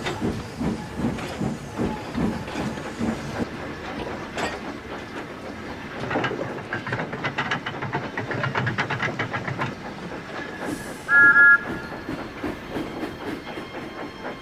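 Steam locomotive running, its exhaust chuffing in an even rhythm that quickens partway through. About eleven seconds in comes a brief, loud whistle sounding two pitches at once.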